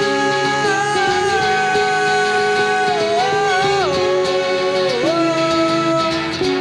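Live stripped-back band performance: a singer holds long, drawn-out notes over guitar accompaniment, the voice sliding down in pitch about three, four and five seconds in.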